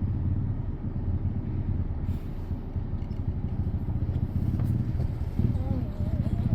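Steady low rumble of engine and road noise from inside a moving vehicle.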